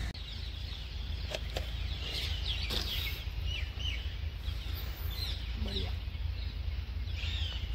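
Birds chirping in many short calls, over a steady low rumble of outdoor background noise.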